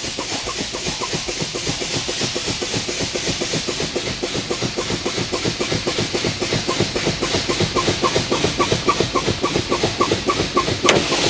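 Semi-truck low-air warning pulsing rapidly and evenly over a steady hiss of air as the brake pedal is pumped to bleed down the air brake system below the warning pressure. Near the end a sharp pop as the tractor protection valves pop out, after which the sound dies away.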